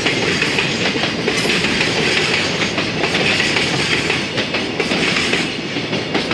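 Container flat wagons of a freight train rolling past, a steady rumble and rattle of wheels on the rails with many quick clicks, easing slightly as the last wagons go by near the end.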